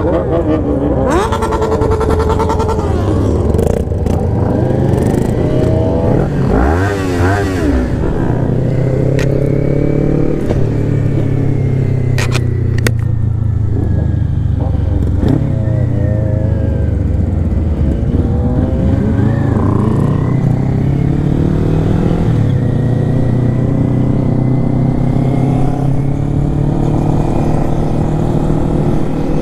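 Kawasaki Ninja 400 parallel-twin engine running under way, its pitch rising and falling with throttle and gear changes. Other motorcycles in the group can be heard revving alongside.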